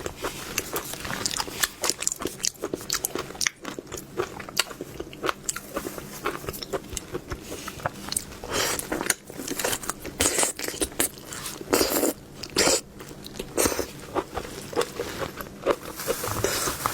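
Close-up mouth sounds of raw lobster being bitten and chewed, with many sharp crunching clicks and wet crackles throughout.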